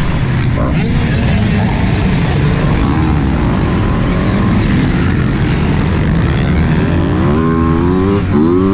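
Motocross bike engines running, with a heavy steady rumble; near the end one engine revs up, its pitch rising twice in quick succession.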